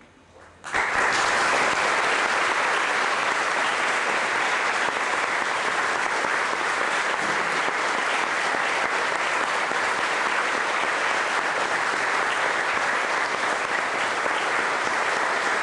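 Audience applauding, starting suddenly under a second in and running on steadily and loudly.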